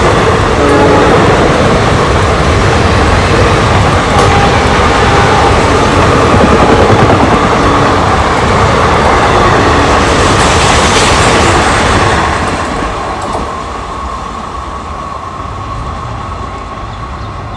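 Passenger coaches of an express train passing close by at speed: a loud, steady rush and clatter of wheels on rails. About twelve seconds in the last coach goes by and the sound drops and fades as the train recedes.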